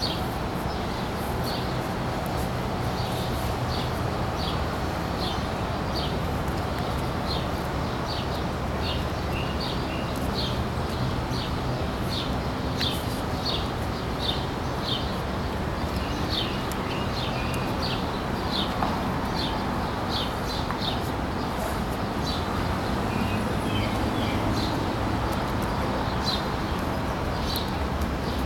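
A small bird chirping over and over, short high chirps about one or two a second, over a steady low rumble of traffic.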